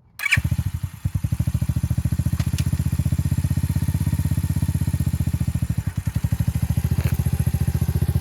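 Motorcycle engine started up again after a stall from letting the clutch out too quickly: it catches almost at once and settles into a steady, evenly pulsing idle.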